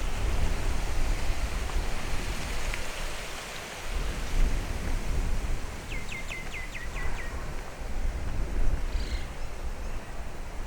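Wind buffeting the microphone with an uneven low rumble. About six seconds in, a bird gives a rapid series of about eight short down-slurred notes, and a fainter call follows a few seconds later.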